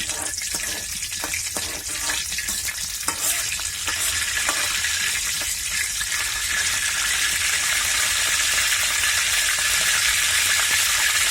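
Whole spices (cardamom, cinnamon and bay leaf) sizzling in hot oil in a kadai, with a spatula clicking against the pan during the first few seconds. The sizzle grows steadily louder as the oil heats.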